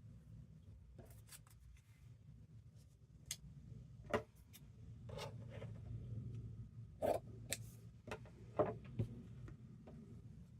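Paper and craft tools being handled on a work table: scattered light clicks, taps and short rustles, a few sharper clicks standing out, over a steady low hum.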